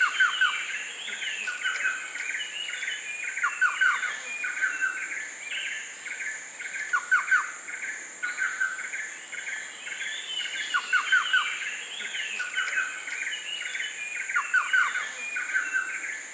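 Rainforest ambience: birds chirping and calling over a steady, high-pitched insect drone, with a cluster of quick falling notes recurring about every three and a half seconds.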